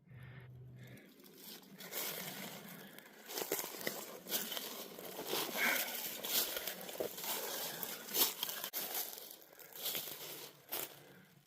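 Close, irregular crunching and rustling of a hiker's footsteps and gear on the trail, with many sharp crackles.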